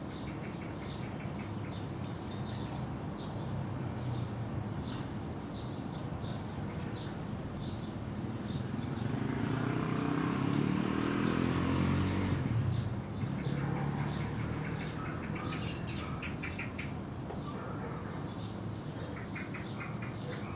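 Small birds chirping repeatedly, while a motor vehicle passes by, building from about eight seconds in to its loudest around eleven to twelve seconds and dropping away soon after.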